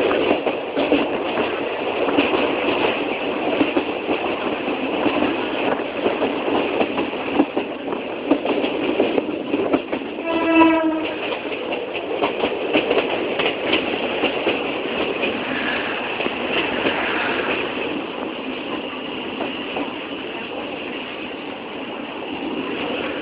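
A train running on the rails, with steady clatter and rumble, and one short horn blast about ten seconds in. The running sound eases off slightly toward the end.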